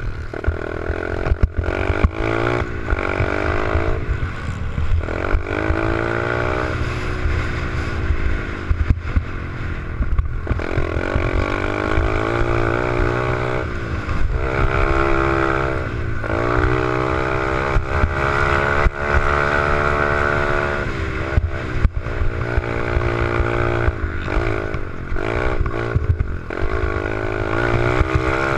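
Small pit bike engine revving up and down over and over as it is ridden, its pitch climbing and falling every few seconds. Heavy low rumble and short knocks run underneath.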